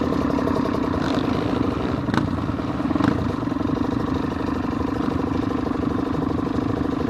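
Motorcycle engine idling steadily, with two sharp clicks about two and three seconds in.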